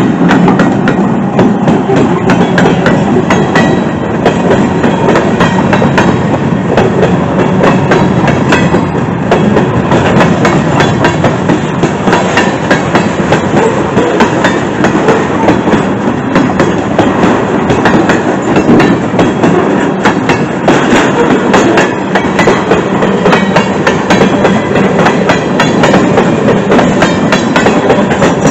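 Freight train rolling past at close range: a loud, steady rumble of the cars with a constant clatter of wheels clicking on the rails.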